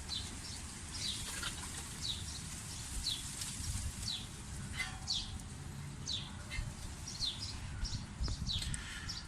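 A bird calling: short, high downward chirps repeated about twice a second, over faint low rumble.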